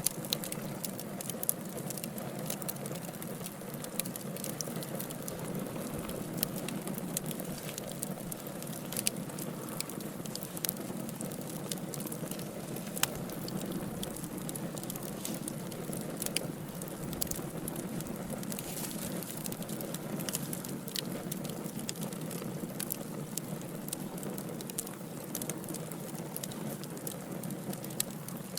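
Wood logs burning in a fire: a steady low rush from the flames with frequent sharp crackles and pops, one louder pop about halfway through.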